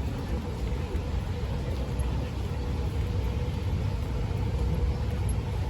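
Busy city street traffic: a steady low rumble of vehicles, with a faint steady hum throughout.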